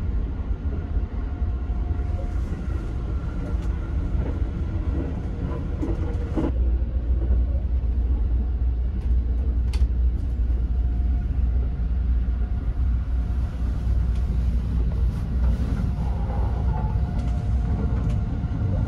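Sunrise Izumo sleeper train running, heard from inside a closed compartment as a steady low rumble with faint tones from the running gear. Two short clicks or knocks come through, one about a third of the way in and one around the middle.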